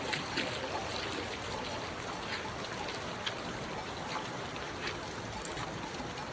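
Steady rush of a flowing stream, with a few faint ticks of water over it.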